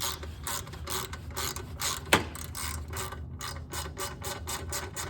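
Socket ratchet clicking rapidly as a bolt is backed out, with one sharper knock about two seconds in.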